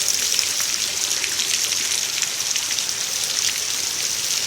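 Steady rain falling: a continuous hiss with scattered drop taps.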